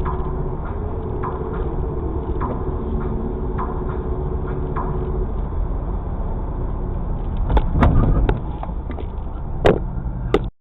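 Steady road and engine rumble of a moving car, recorded by a dashcam. A short cluster of louder knocks and thuds about three-quarters of the way through, and one sharp bang shortly before the end.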